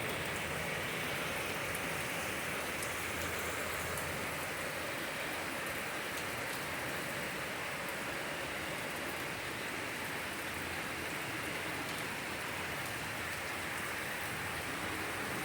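Torrential rain falling and splashing on surfaces, a steady, even downpour.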